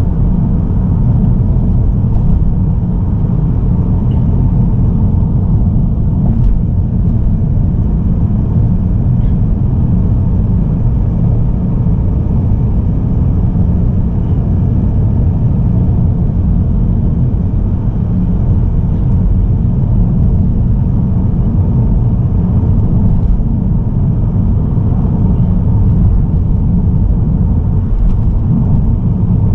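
Mazda3 diesel sedan cruising at a steady speed, heard from its on-board camera: a constant low road and tyre rumble with no change in engine pitch.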